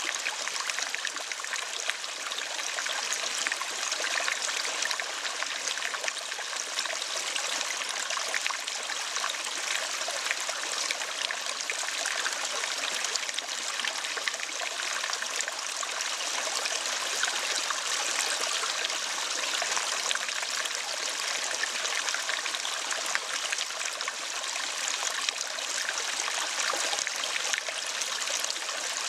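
Running water, a steady trickling flow like a small stream, with no break.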